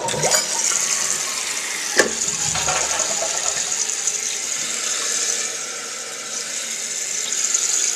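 Kohler Cimarron Class Five one-piece toilet flushing. A sudden rush of water as the bowl empties, with a sharp knock about two seconds in. The rush settles after about three and a half seconds into a steady high hiss as the Fluidmaster fill valve refills the tank.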